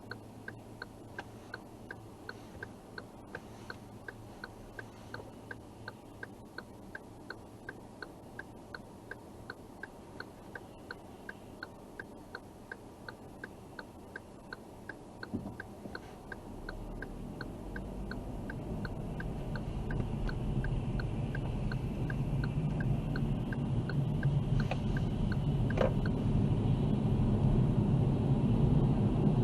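A car's turn-signal indicator clicking steadily, about two clicks a second, inside the cabin. Past the middle, engine and tyre rumble builds as the car pulls away and speeds up, and the clicking stops near the end.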